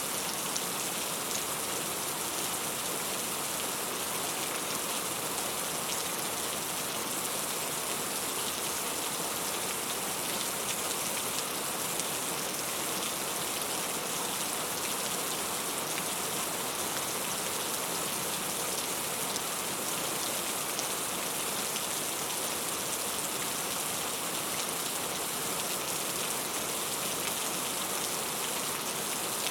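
Heavy rain falling steadily, an even, unbroken hiss of raindrops.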